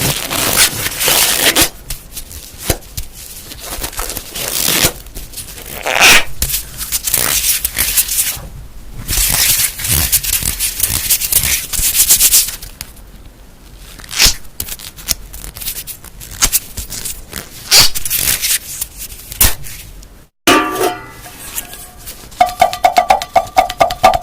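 Objects handled close to the microphone for ASMR: rustling, scratching and crackling with many sharp clicks. After a sudden brief break about twenty seconds in, a different object is tapped rapidly and rings with a pitched tone.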